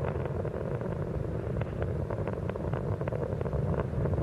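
Space Shuttle rocket roar during ascent: a steady, deep rumble with rapid crackling, from the solid rocket boosters and main engines.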